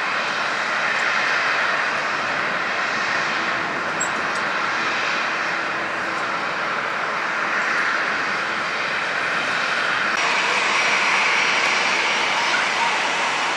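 Jet engines of a Boeing 747-400 freighter running with a continuous steady roar, whose tone shifts about ten seconds in.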